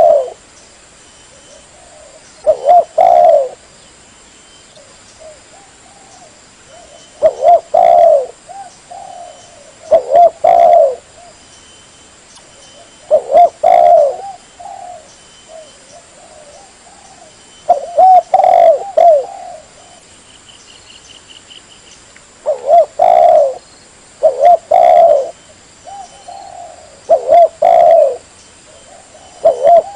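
Spotted dove (tekukur) cooing: short phrases of a few low coos repeated every few seconds, with softer coos in between, played as a bird-trapping lure call.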